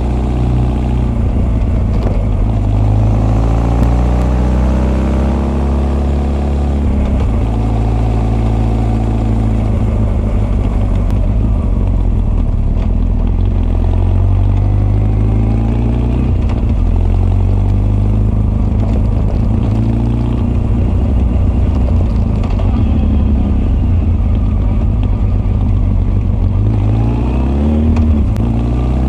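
Honda CB1300's inline-four engine heard through its Keihin FCR41 carburettor intakes and r's gear Wyvern full exhaust, accelerating and backing off. The note climbs and falls again and again, with a quick rise near the end.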